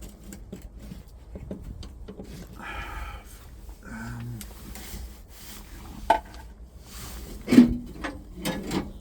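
Rubbing and scraping as an old vacuum pipe is worked out of its fitting by hand, with scattered small clicks. A sharper knock comes near the end, followed by a short clatter.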